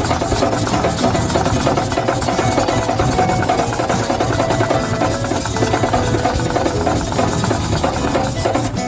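A steel deba knife blade grinding against a sharpening stone: a steady, loud gritty scraping that stops suddenly near the end, with background music underneath.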